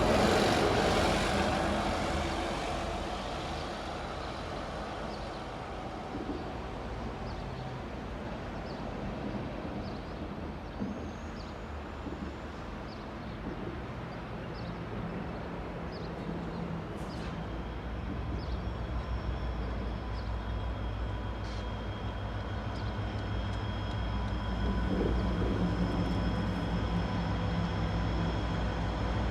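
Traffic noise fades over the first few seconds, with a run of faint, evenly spaced ticks. Then, about two-thirds of the way in, the low rumble of a KiwiRail DFB-class diesel-electric locomotive sets in with a steady high whine, and it grows louder as the train approaches.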